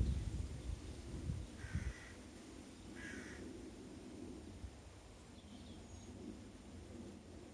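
A crow cawing twice, about a second apart, with a faint outdoor background. A low rumble in the first two seconds sounds like wind or handling on the microphone.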